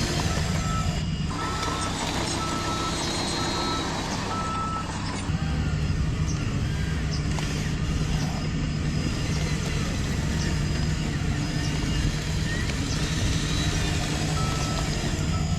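Radio-controlled construction vehicle's simulated diesel engine running steadily, with its reversing beeper sounding about twice a second. The beeping stops after about five seconds and starts again near the end.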